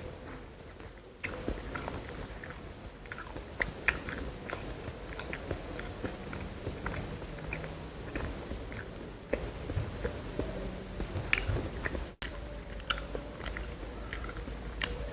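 Close-up eating sounds: a person biting and chewing food, with irregular crisp crunches and wet mouth clicks.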